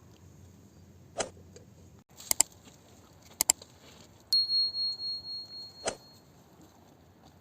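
A few sharp clinks of hard objects, two of them in quick pairs, then one strike that rings with a single high tone, pulsing as it fades over about two seconds.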